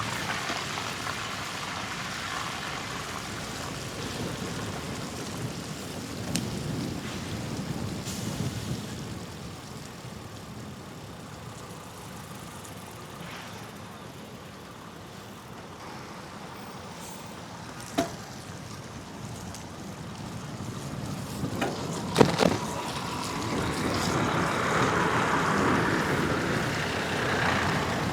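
Road traffic heard from a moving bicycle, a steady rushing noise of passing vehicles. A sharp click comes about two-thirds through, a couple of knocks follow a few seconds later, and the rushing grows louder near the end.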